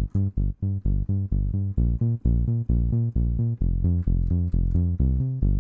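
Synth Bass 101 preset of the Bismark bs-16i sound module playing a fast run of short, detached bass notes, about four a second, moving up and down in pitch.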